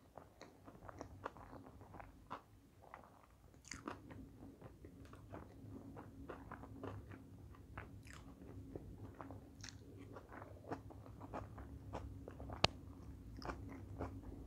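Close-up mouth sounds of someone chewing sushi rolls: soft crunches and wet clicks, with one sharper click near the end. A faint steady hum sits underneath from about four seconds in.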